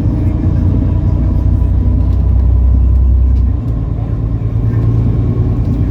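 Engine of a MAN Lion's City A37 city bus running under way, a deep low rumble. It grows louder until about three and a half seconds in, then falls back to a lower, steady level.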